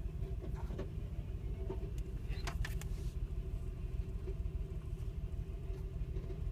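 V6 engine of a 1998 Mercury van idling roughly while parked, with a steady low rumble and faint light knocks. The knocking at idle goes with a misfire, which the owner puts down to a stuck-open fuel injector whose unburnt fuel is burning in the catalytic converter.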